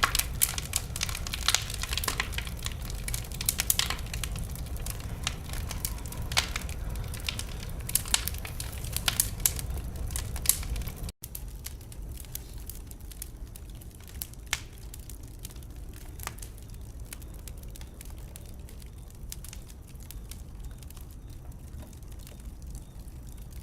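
Wood fire in a fireplace crackling, with frequent sharp pops over a low rumble of flame. About eleven seconds in the sound drops out for an instant and comes back quieter, with fewer and softer crackles.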